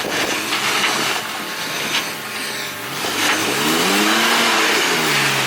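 Pickup truck engine under load, revving up and dropping back about midway as the truck works up a steep, washed-out climb, over a steady noisy scrabbling with a few knocks.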